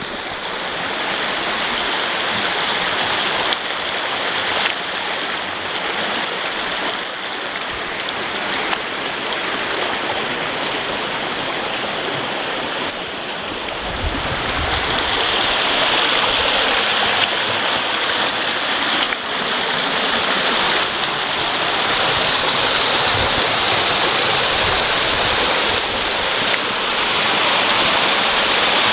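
Steady rush of water pouring down a waterfall cascade, getting louder and brighter from about halfway through.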